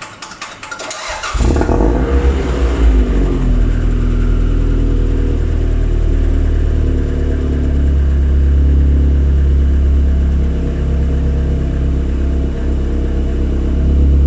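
Toyota MR2 starting: a rapid run of relay clicks, which the owner puts down to a bad connection somewhere. Then the engine catches about a second in, revs up and back down briefly, and settles into a steady idle.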